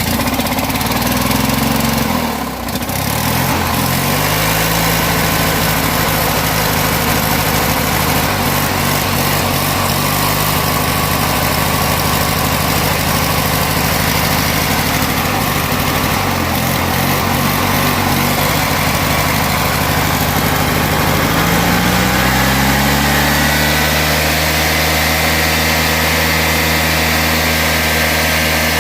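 Worn opposed-twin engine of a mudmower (a modified riding lawn mower) running just after a cold start. Its speed wavers over the first few seconds, settles into a steady idle, dips briefly around the middle, then rises a little past twenty seconds in and holds at a faster speed.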